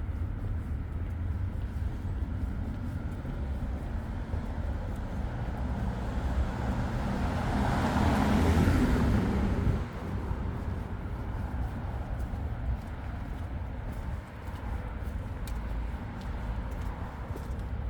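Steady low traffic rumble on an urban street, with one vehicle passing close. Its sound swells over a few seconds and cuts off abruptly about ten seconds in.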